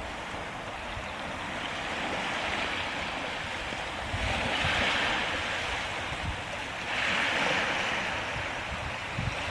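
Small waves washing onto the shore, swelling twice, with wind rumbling on the microphone.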